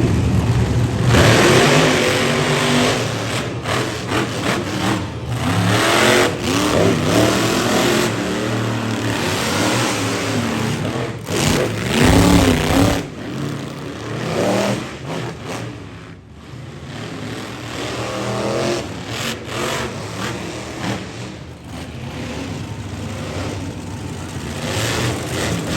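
Monster truck engines revving hard, their pitch repeatedly rising and falling, broken by several abrupt cuts; the sound drops briefly about two-thirds of the way through before building again.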